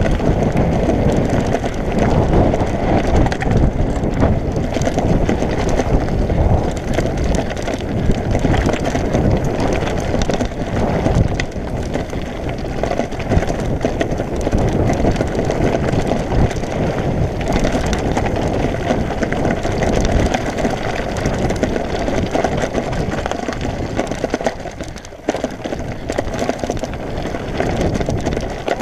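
Mountain bike riding a rough singletrack trail: continuous wind buffeting on the microphone mixed with the bike's rattle over the ground, easing briefly near the end.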